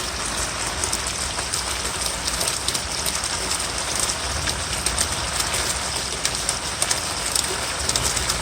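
Heavy rain falling steadily, with many individual drops ticking sharply on hard surfaces.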